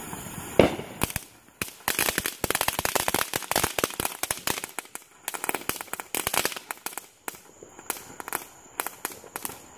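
Consumer ground fireworks going off: a loud bang about half a second in, then a dense run of rapid crackling pops that thins out to scattered pops after about seven seconds.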